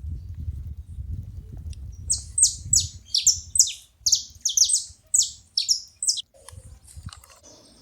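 Saffron finches calling: a quick run of about a dozen sharp, downward-sweeping chirps lasting about four seconds. A low rumble underneath dies away about three seconds in.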